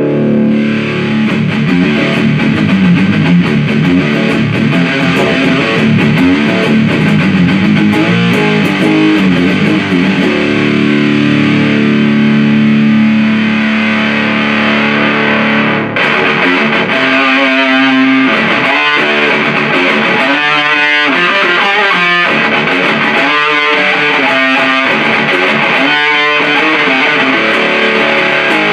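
Electric guitar played through a Big Muff-style op-amp fuzz pedal (the 77 Fuzz Blender) into a tube amp, with heavy fuzzed riffs. For the first half the chords ring out long. About 16 seconds in the tone changes suddenly and the playing becomes shorter, choppier chords with gaps between them.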